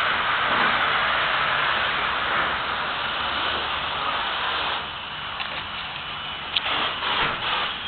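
Steady hiss of water spraying while a car is washed, which drops away about five seconds in, followed by a few light knocks.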